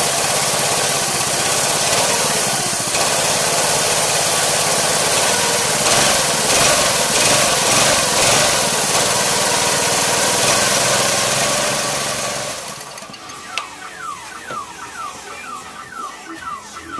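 A small single-cylinder gasoline engine, the mini bike's 212 cc Predator, runs loudly and steadily, then cuts off about twelve seconds in. A moment later a car alarm starts sounding, a rapid repeating warble.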